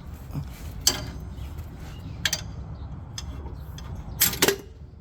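Sharp metallic clicks and clinks of hand tools on the shock mount while the old shock absorber is worked loose: four strikes, the last two close together near the end, over a low steady rumble.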